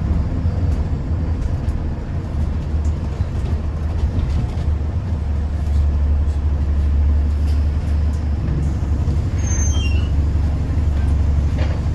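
Bus engine and running gear heard from inside the passenger cabin: a steady low rumble that grows louder about halfway through, with a brief high squeak near the end.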